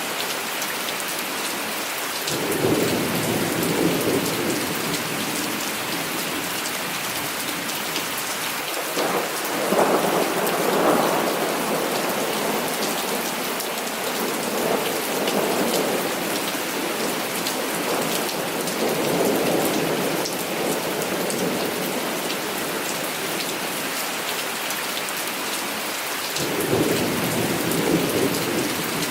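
Heavy rain falling steadily, with several rolls of thunder swelling up through it, the loudest about ten seconds in.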